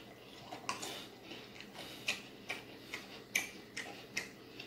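Open-mouthed chewing of seasoned French fries: a string of short, wet smacking clicks, about two or three a second.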